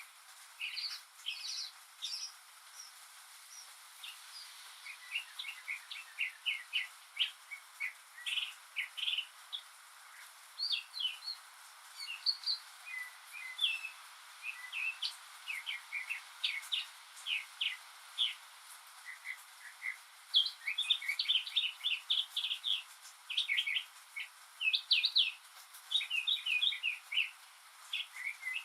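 Northern mockingbird singing: a long, rapid string of short, varied high phrases, each repeated several times in a row, mimicking the songs of other birds. The singing grows louder about two-thirds of the way through, over a faint steady hiss.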